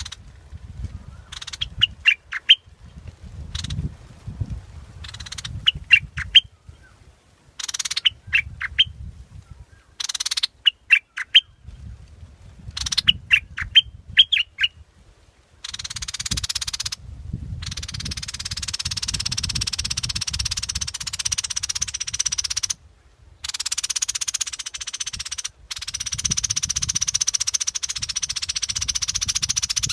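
Yellow bulbul calling in short phrases of a few quick notes, repeated every two to three seconds. From about halfway a continuous, dense high-pitched sound takes over, cutting off abruptly for brief moments.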